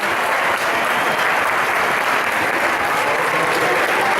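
Football crowd applauding, a dense, steady clapping.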